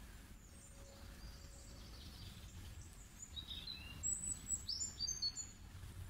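Small bird chirping in short high notes, busier from about three seconds in, over a faint low steady background rumble.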